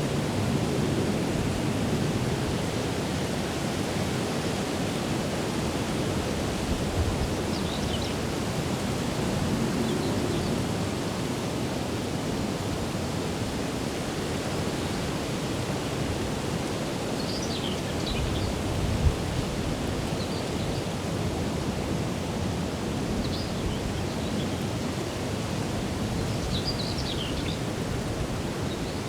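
Steady rushing outdoor ambience, a dense even hiss, with short high bird chirps breaking through every few seconds.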